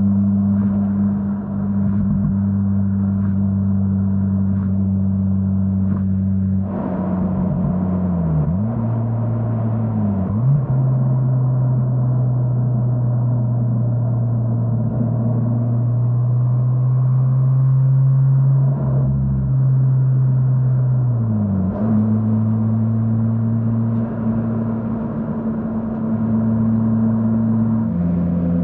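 Mazda RX-8's twin-rotor Renesis 13B rotary engine running through an AutoExe stainless dual muffler, the car held at steady revs. The pitch falls about eight seconds in and settles lower, climbs back up a little after twenty seconds, then steps down slightly near the end.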